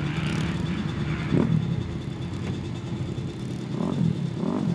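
Small motorcycle engine running, revving up briefly about a second and a half in and twice more near the end.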